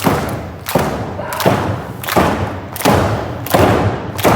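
Repeated heavy thuds on a pro-wrestling ring, evenly spaced at about one every 0.7 seconds, each echoing briefly in a large hall.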